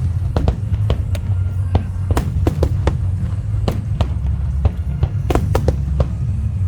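Large aerial fireworks bursting in quick, irregular succession: many sharp bangs and crackles over a continuous deep rumble, thickest in a cluster near the end.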